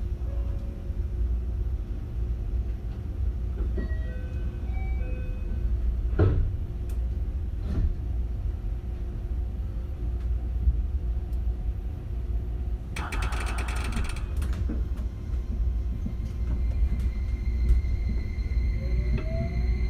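Inside a 271 series limited express EMU running along: the steady low rumble of wheels on rail, with a brief clattering burst about two-thirds of the way in. Near the end the Hitachi SiC VVVF inverter's tone starts rising in pitch as the train powers up.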